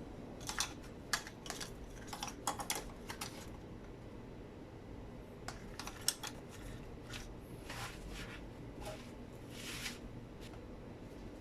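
Irregular light clicks and taps of small metal engine parts and hand tools being handled, clustered in the first few seconds and again about six seconds in, with a few softer rubbing sounds later.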